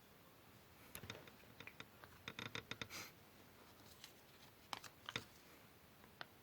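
Quiet paper-craft handling: small clicks and brief rustles of paper and hand tools, a busy run of them over two seconds or so, then a few single clicks.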